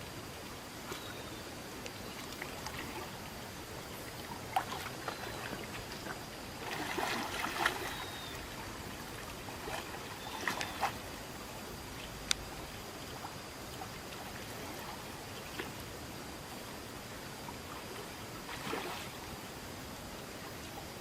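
Water trickling and splashing over a steady background hiss, with scattered short splashes or knocks, the busiest stretch about seven seconds in.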